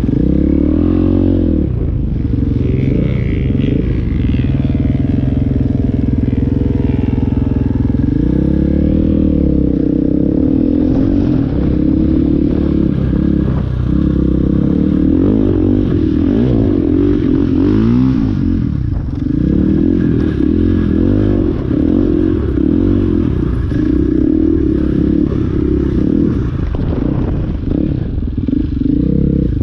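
Dirt bike engine running under way, its revs rising and falling again and again with throttle and gear changes.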